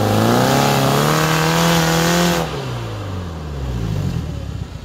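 Suzuki Samurai 4x4's engine revving high under load as it climbs a steep sandy bank, its pitch wavering. About two and a half seconds in, the throttle is let off and the revs fall away.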